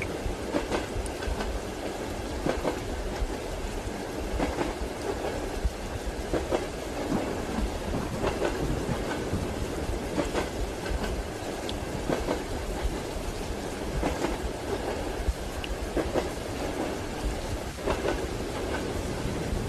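Train wheels clacking over rail joints inside a moving railway carriage, under a steady low rumble, with soft rain in the background.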